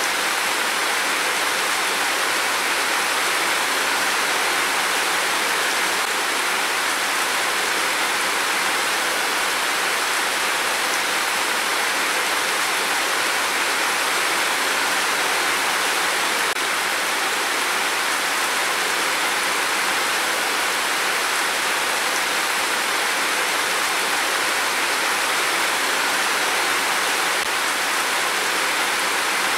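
Heavy rain pouring down in a steady, even hiss, with no thunderclaps.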